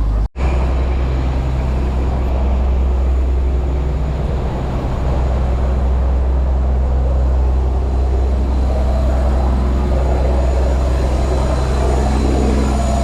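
A boat's engine runs with a steady low drone. The sound cuts out for an instant just after the start.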